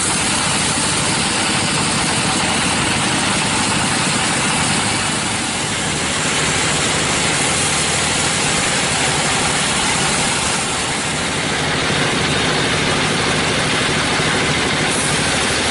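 Sawmill machinery running steadily: an engine at a steady speed under an even, loud hiss.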